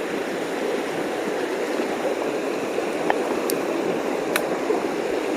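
Creek water rushing steadily over stones. A few faint short clicks sound about three to four seconds in.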